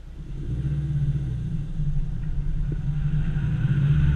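A 1989 classic Mini's A-series four-cylinder engine running as the car drives along. It grows louder over the first second, then holds a steady low note.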